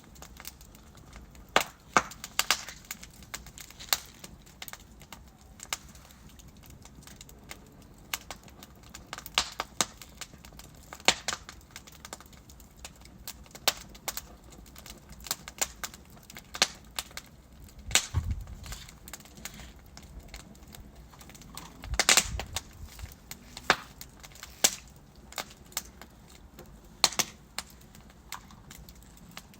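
Wood logs burning in a fireplace, crackling and popping at irregular intervals over a low steady hiss of the flames, with a brief flurry of louder pops past the middle.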